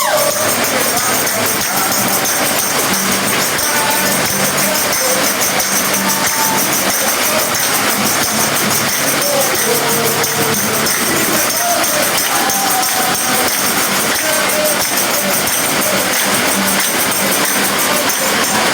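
Worship music with tambourines jingling steadily throughout, and scattered voices faintly mixed in.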